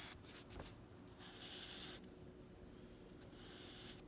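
Drawing strokes on paper: two long scratchy strokes, one about a second in and one near the end, each lasting under a second, with a couple of faint taps at the start.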